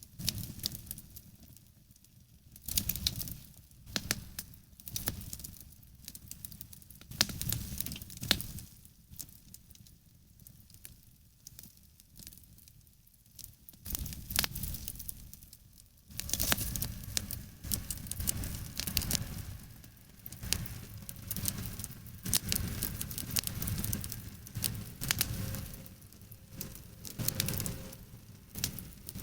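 Garden campfire of damp wood crackling and popping with sharp, irregular snaps. About halfway through, a steadier low rumble joins the crackling and keeps on.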